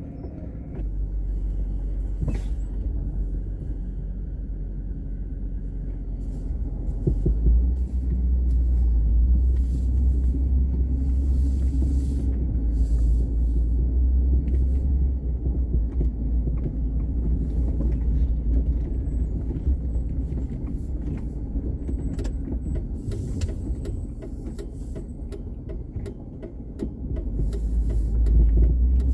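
Car driving, its engine and road noise heard as a deep rumble from inside the vehicle. The rumble swells about seven seconds in, eases for a few seconds and rises again near the end, with scattered small clicks and crackles throughout.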